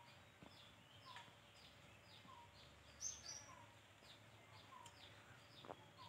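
Faint birdsong: short, high, falling chirps repeated about twice a second, with a lower short note about once a second.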